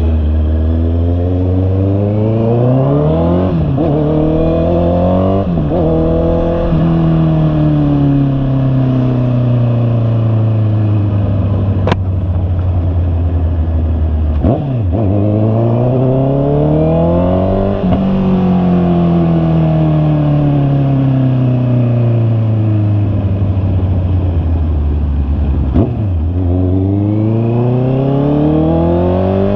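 Honda CB650R's inline-four engine pulling through the gears: revs climb and break twice in quick upshifts early on, then fall away in a long roll-off. It pulls up again and rolls off once more, then starts climbing near the end, with a single sharp click in the middle.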